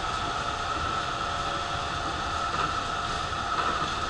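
Astram Line rubber-tyred automated guideway train running, heard inside the car: a steady rumble of running noise with an even, high whine held throughout.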